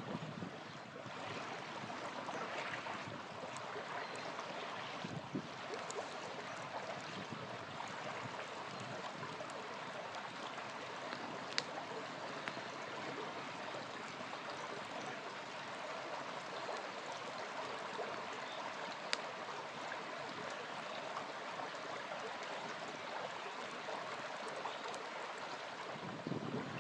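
Small river flowing steadily, with occasional sharp pops from a crackling campfire, two of them standing out partway through.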